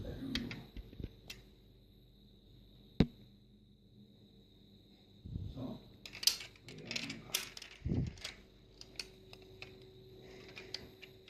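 Toy cars being handled: scattered light clicks and knocks of small plastic and metal parts. There is one sharp click about three seconds in and a flurry of clicks and taps between about six and eight seconds.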